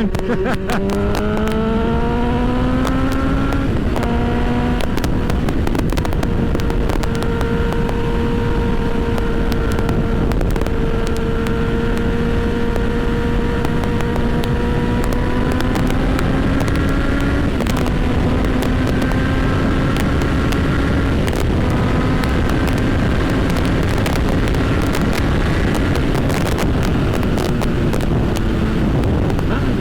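Honda CB1000R's inline-four engine under way: it revs up over the first few seconds, steps down in pitch at a gear change about four seconds in, then runs at a fairly steady, slowly rising pitch with two more gear changes later. Wind rushes over the microphone throughout.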